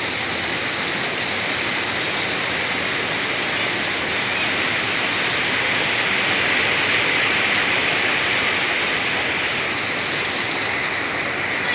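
Heavy rain pouring steadily on tiled roofs and trees, a dense, even hiss.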